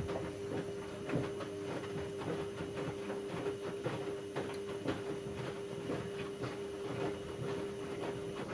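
Bauknecht WA aquaton 1400 front-loading washing machine in its wash phase: the drum motor runs with a steady whine while the laundry and water tumble with continual irregular knocking and sloshing. Near the end the motor stops and the drum comes to rest for its pause.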